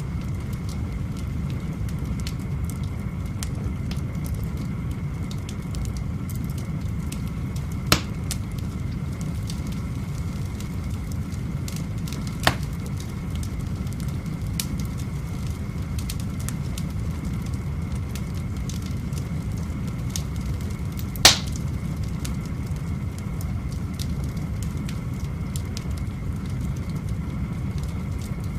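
Firewood burning in an open fireplace: a steady low rumble with scattered small crackles and three sharp pops, the loudest about two-thirds of the way through.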